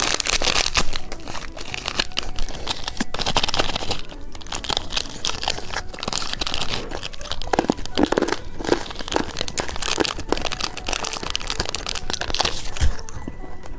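Plastic candy packaging crinkling and being torn open, with many irregular close-up crackles throughout.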